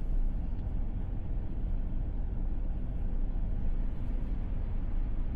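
Steady low road and tyre rumble of an electric Tesla Model S driving on a mountain highway.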